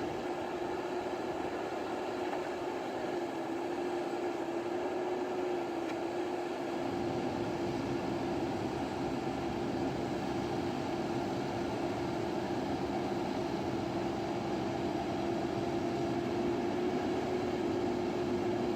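A machine running steadily, giving a constant hum with one strong, unchanging tone. A low rumble joins in about seven seconds in.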